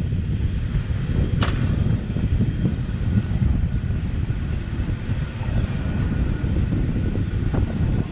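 Matterhorn Gotthard Bahn train running along the line with a steady low rumble, and one brief sharp metallic click about a second and a half in.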